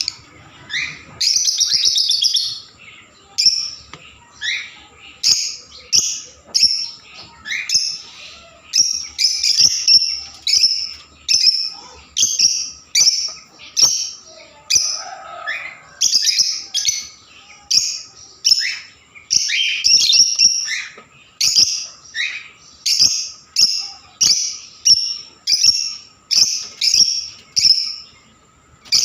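Small pet parrots giving shrill, repeated chirping calls, about one to two a second, some notes sweeping downward.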